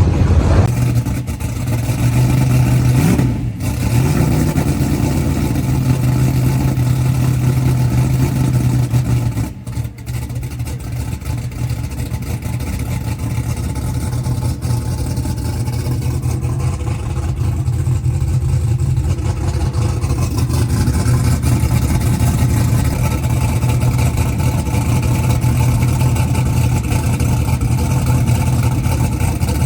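A vehicle engine running steadily at a low, even pitch, with no hard revving. It dips briefly twice, about three seconds in and about ten seconds in.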